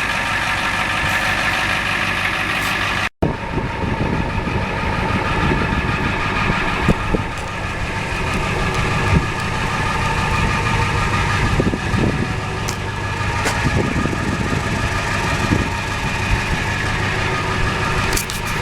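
1992 Ford F350's turbo diesel V8 idling steadily, with a few light knocks over it and a momentary break in the sound about three seconds in.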